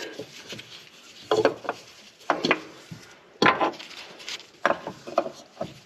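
Irregular knocks, taps and scrapes of a new spin-on oil filter being worked by hand up past parts under a pickup truck, trying to fit it through to the filter mount.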